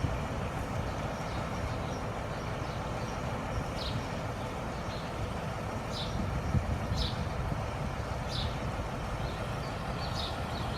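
Steady rumble of vehicle engines and street traffic, with a few short high chirps scattered through it.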